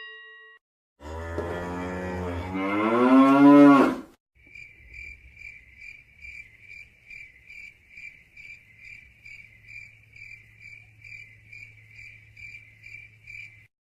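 A cow mooing once for about three seconds, its pitch rising toward the end. Then crickets chirping in an even pulse about twice a second.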